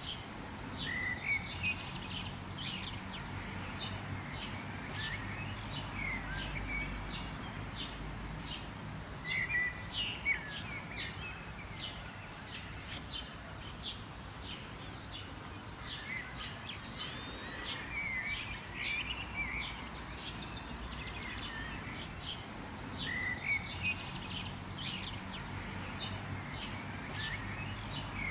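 Several birds chirping, many short quick calls overlapping throughout, over a steady low background rumble.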